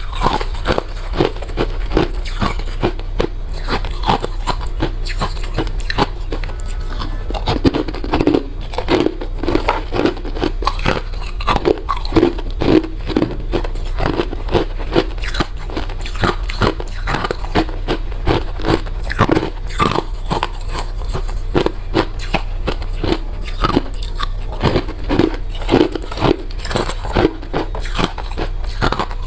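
Close-up crunching of refrozen crushed ice being bitten and chewed, a dense run of sharp, irregular crunches with no let-up.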